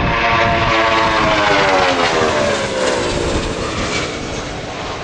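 Boeing 757-200's twin jet engines passing by loudly in a display flypast. The engines' whine slides steadily down in pitch over about three seconds as the airliner goes past, over a wide rushing noise, then starts to fade away.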